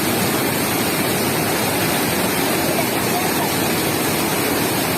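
Floodwater rushing steadily with a constant loud roar, with faint human voices in the background.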